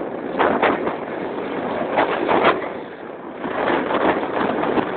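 Wind rushing and buffeting over the microphone on a moving Keeway Hurricane scooter, with several sharper gusts, its engine running underneath.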